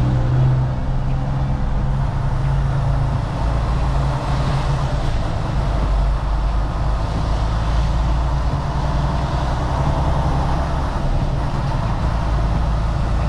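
Semi truck engine running steadily under way, heard inside the cab, with the hiss of tyres on a rain-wet road.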